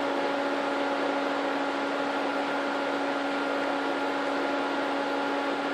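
The rebuilt engine of a 1966 Plymouth Valiant V100 running steadily at a constant speed during its break-in run, a smooth even hum with a steady tone.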